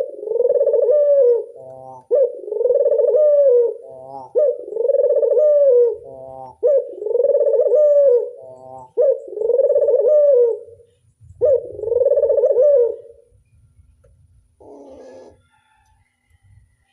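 Domestic Barbary dove (burung puter) giving its 'anggungan' bowing coo: a long rolling coo repeated about every two seconds, with a short stuttered note between each, about six times before stopping. One short call comes near the end.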